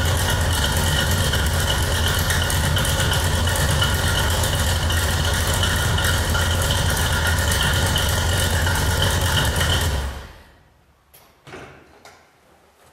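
Engine of a 1972 pro street pickup idling steadily, then shut off about ten seconds in; a few faint clicks follow.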